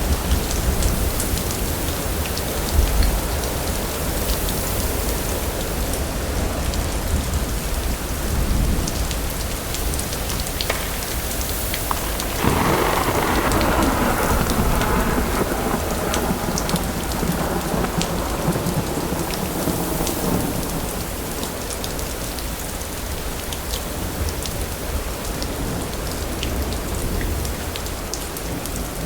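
Steady rain falling, with scattered sharp drips and a deep thunder rumble in the first few seconds. About twelve seconds in, a louder roll of thunder breaks in suddenly and dies away over several seconds, leaving the rain.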